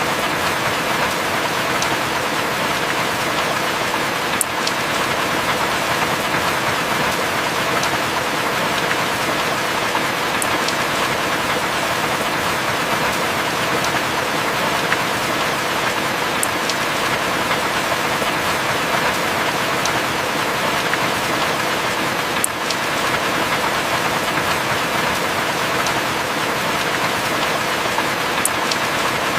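Heavy rain falling steadily on and around a wooden cabin, an even hiss with a few sharp drip ticks about every six seconds.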